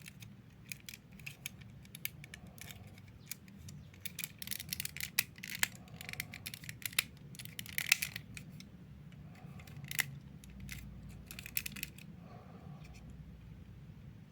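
Irregular small sharp clicks and light rattles, like small hard parts being handled or snipped, coming thick and fast in the middle and again near the end.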